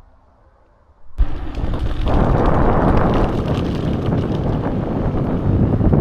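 Wind buffeting the microphone of a camera on a moving bicycle, a loud steady rush that starts suddenly about a second in.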